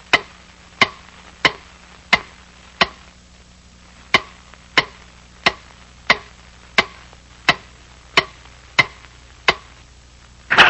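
Cartoon sound effect of sharp, evenly spaced knocks, about three every two seconds, with a short pause partway through. A louder hit comes near the end.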